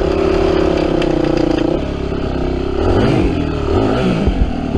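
Yamaha WR250F's single-cylinder four-stroke engine held at high revs, then dropping and rising in pitch a couple of times as the rider works the throttle while the bike struggles for traction.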